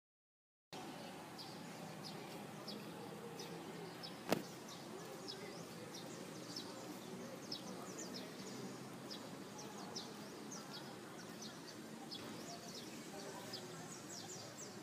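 Outdoor background that starts abruptly just under a second in, with frequent short, high chirps scattered through it and one sharp click about four seconds in.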